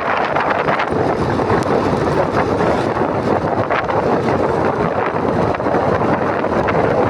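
Wind buffeting a motorcycle rider's camera microphone while riding, mixed with engine and road noise in a steady loud rush.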